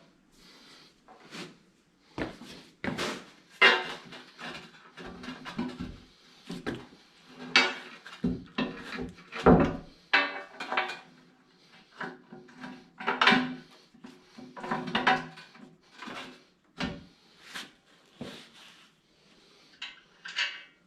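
Irregular clunks, knocks and scrapes of tools and metal parts being handled during a grader blade repair, some blows ringing briefly.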